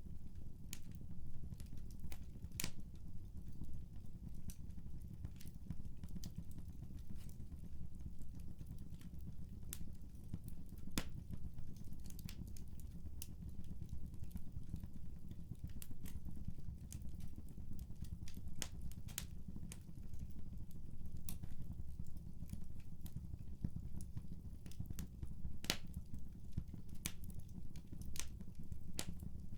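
Fireplace fire crackling: irregular sharp pops and snaps, a second or so apart, over a steady low rumble.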